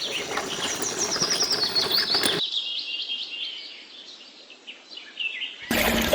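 Small birds chirping in quick repeated high notes, over a noisier background for the first couple of seconds that drops away abruptly about two and a half seconds in and returns suddenly near the end.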